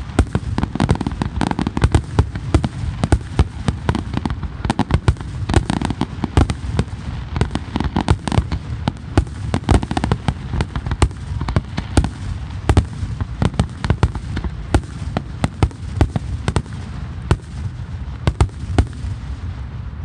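Fireworks going off in a rapid, dense barrage, several bangs a second over a deep rumble; the bangs stop at the end.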